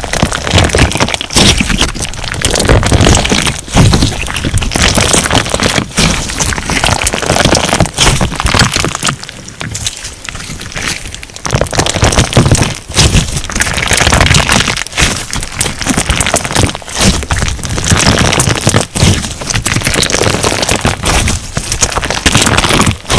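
Crunch slime being squeezed and pressed by hand, giving a dense, continuous crackling and popping, softer for a few seconds a little before the middle.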